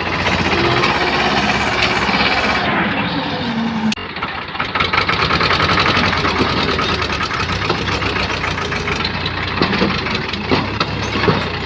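Diesel tractor engine running steadily, with an abrupt change in the sound about four seconds in.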